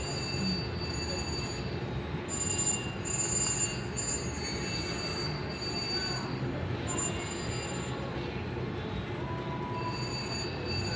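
Slot machine electronic tones ringing in short stretches, loudest a couple of seconds in, over the steady background din of a casino floor.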